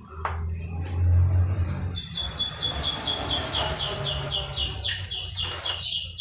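A small bird chirping a fast run of short, high, downward-sliding notes, about five a second, starting about two seconds in. A low hum sounds beneath during the first two seconds.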